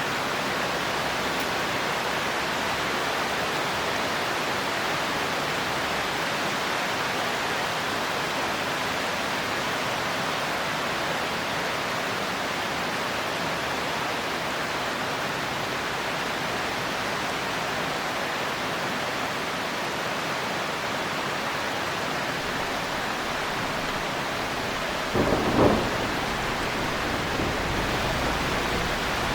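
Heavy rain falling steadily, with a single loud thunderclap near the end that fades into a low rumble.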